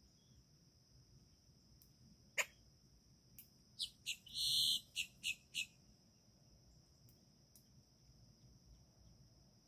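A bird calling: one sharp note that drops steeply in pitch, then about a second later a quick run of high calls with one longer, louder note in the middle. A steady high insect drone runs underneath.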